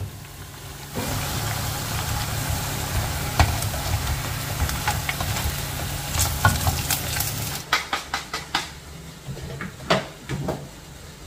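Tempe deep-frying in hot oil in a wok, a steady sizzle, with the slotted metal skimmer and spatula clicking against the pan as the pieces are turned. The sizzle drops away suddenly about two-thirds through, leaving a few sharp utensil clicks.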